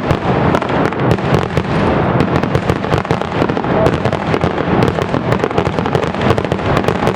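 A fireworks barrage: many shells bursting in quick succession, a dense run of overlapping bangs and crackles several times a second.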